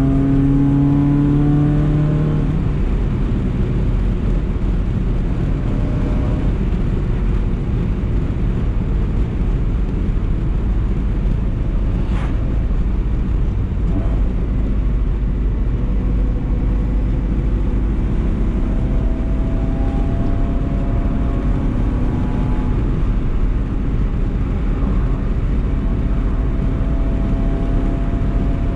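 BMW E30 318is's four-cylinder engine on the move, revs rising briefly at the start, then settling to a steady low drone over road noise. The revs climb slowly again past halfway, and a single sharp click sounds about twelve seconds in.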